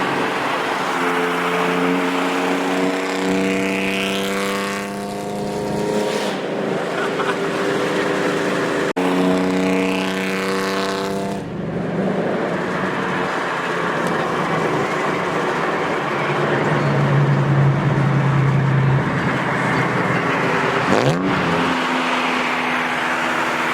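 Car engine accelerating hard: its pitch climbs steadily for several seconds, drops at a gear change, then climbs again before settling into a steadier run, with a quick dip and rise in revs near the end.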